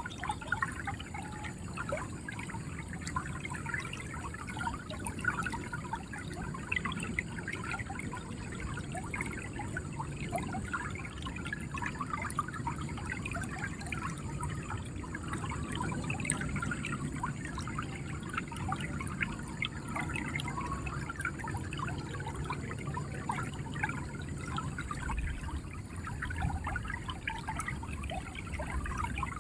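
River water flowing and gurgling steadily over stones, a continuous babble of small splashes with a low rush beneath.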